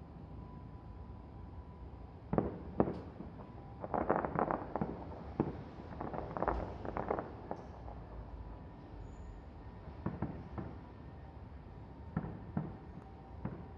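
Distant fireworks going off: irregular sharp pops and booms, with short runs of rapid crackling shells about four seconds and seven seconds in.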